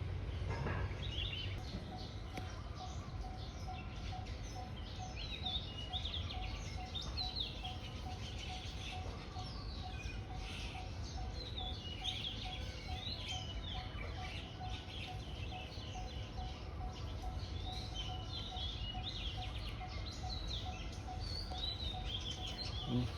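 Wild birds chirping and singing, many short high calls overlapping throughout, over a steady low rumble and a faint, evenly repeated lower note.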